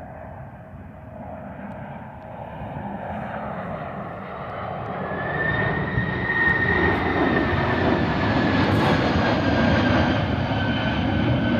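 Boeing 767's twin jet engines during a go-around, the sound swelling as the airliner powers up and comes closer, with a high engine whine joining about five seconds in.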